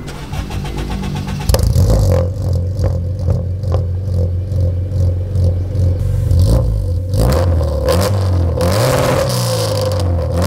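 Honda Accord Euro R CL7's 2.0-litre K20A i-VTEC four-cylinder engine, heard at the exhaust. It idles briefly, then is revved in repeated rising and falling throttle blips from about a second and a half in, and is held higher near the end.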